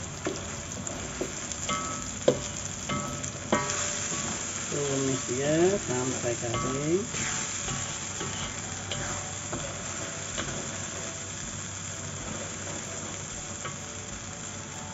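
Blended spice paste frying and sizzling in a steel wok as a spatula stirs it. The spatula knocks against the wok a few times in the first seconds, and it scrapes across the wok in a longer stretch around the middle.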